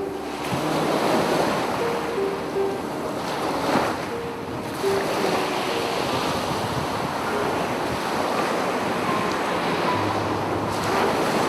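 Sea waves breaking and washing up a beach in repeated surges of surf. Soft piano music plays faintly underneath.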